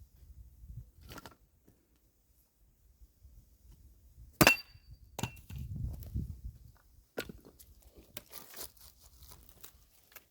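Firewood being split and handled: one sharp strike about four and a half seconds in with a brief ring. A low thud follows, then scattered knocks and clatters of wood.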